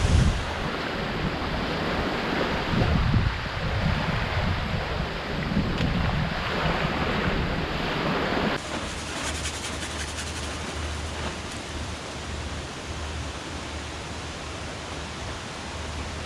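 Steady outdoor wind and water noise, with low gusts buffeting the microphone in the first half. About eight and a half seconds in, the sound changes abruptly to a steadier, thinner hiss.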